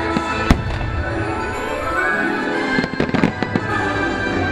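Aerial fireworks going off over the show's music: one sharp bang about half a second in, then a quick run of cracks and pops around the three-second mark.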